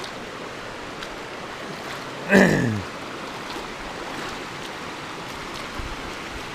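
Mountain river water rushing steadily over rock pools. About two seconds in comes one short, loud, voice-like call that falls in pitch.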